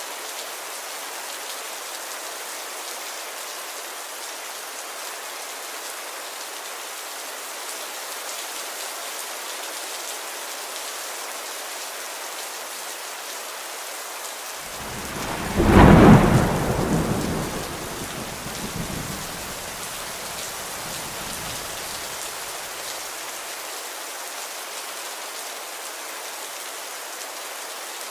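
Steady rain hiss. About halfway through, a clap of thunder swells up and rumbles away over several seconds.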